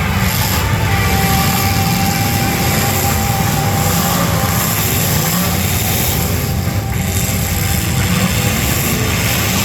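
Engines of several demolition derby cars running hard together, a loud steady engine din.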